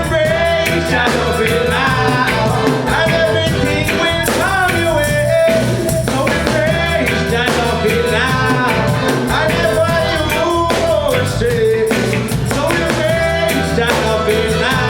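Live reggae band playing, with a vocalist singing over drums and bass.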